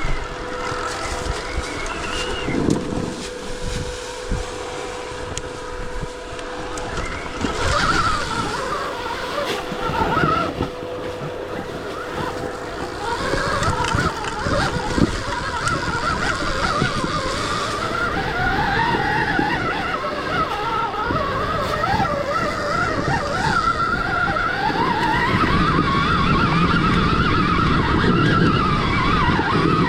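Stark Varg electric dirt bike's motor whining, its pitch rising and falling with the throttle, with knocks and rattles from the bike over rough ground.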